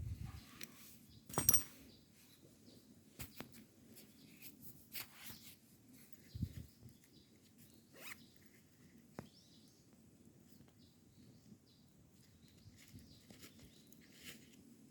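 Scattered small clicks and short rustles, with a sharp click carrying a brief ringing note about a second and a half in and a dull thump a few seconds later.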